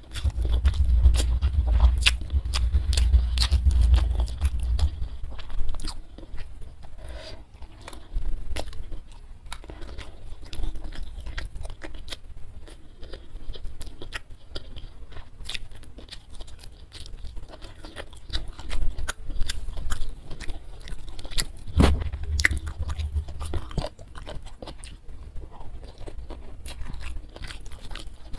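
Close-miked mouth sounds of eating a rice and steamed fish meal by hand: steady chewing with many short crisp clicks and crunches. Heavy low rumbles come in the first few seconds and again about 22 seconds in.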